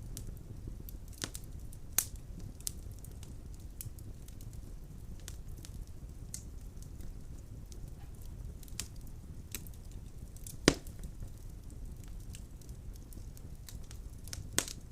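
Wood fire burning in a fireplace, with a low steady rumble of flame and irregular crackles and pops of burning logs; the sharpest pop comes about two-thirds of the way through.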